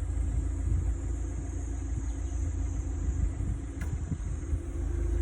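Steady low rumble with irregular low thumps and a faint high hiss.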